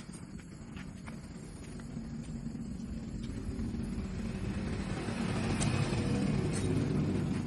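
A motor vehicle engine rumbling, growing steadily louder toward the end and then starting to fade, like a vehicle approaching and passing.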